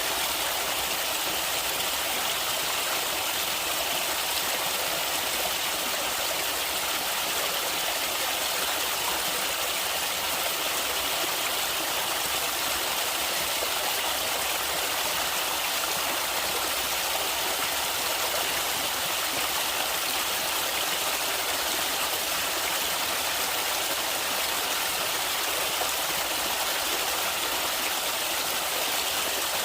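Water flowing steadily in a stream, an even, unbroken hiss of running water with no other events.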